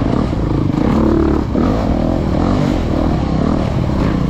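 Off-road dirt bike engine revving up and down under load, easing off briefly about a second and a half in.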